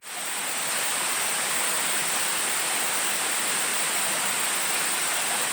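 Steady rush of flowing water, with a constant high hiss above it.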